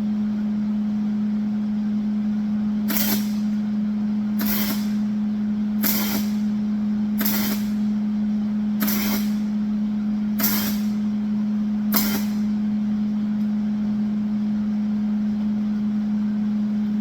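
Welder running with a steady hum, laying seven short hissing tack or stitch welds about a second and a half apart while the angle iron is fixed to the flatbed frame.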